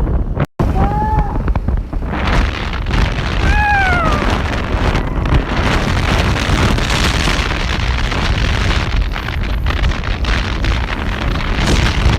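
Wind buffeting the microphone on a moving motorbike, a steady heavy rumble, with a brief gap about half a second in. Two short high calls rising and falling in pitch are heard about a second in and again between three and four seconds in.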